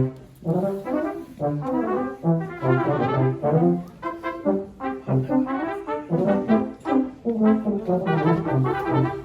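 Brass quartet playing a passage of short, changing chords in brief phrases.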